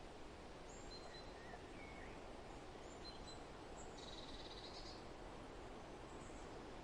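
Forest ambience: a faint, steady hiss of wind through foliage, with scattered short, high songbird chirps. About four seconds in, a rapid high trill lasts about a second.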